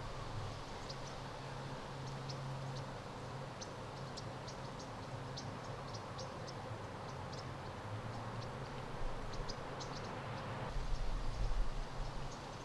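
Outdoor ambience: scattered short, high chirps over a steady low rumble that swells briefly near the end.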